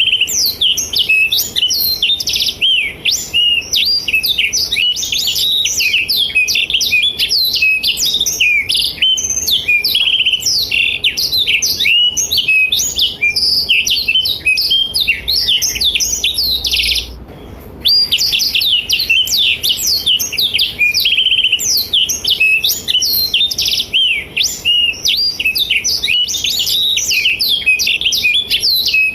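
Blackthroat (black-throated canary) singing a long, rapid, unbroken twittering song of quick rising and falling notes, with one short break a little past halfway.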